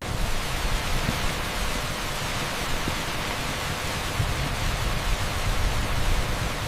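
Torrential rain on an asphalt street: a dense, steady hiss with no separate drops to be picked out.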